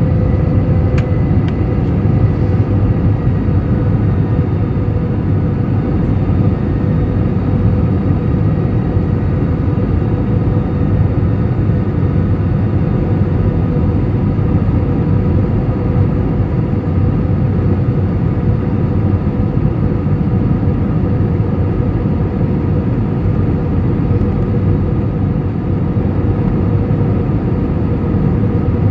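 Steady jet airliner cabin noise: the drone of the engines and airflow around the fuselage, with a faint steady whine on top.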